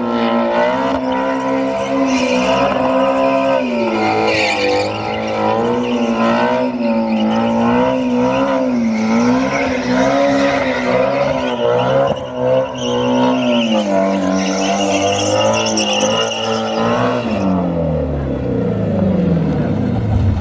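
A car's engine held at high revs, its pitch wavering up and down as the car spins donuts, with tyres squealing. The revs fall away near the end.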